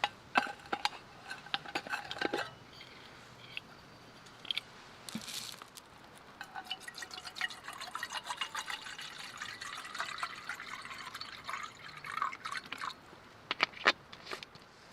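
Liquid being poured into a cup, with a dense run of small splashing and dripping sounds. This is preceded by a few light clinks with a short ring, and two sharp clicks come near the end.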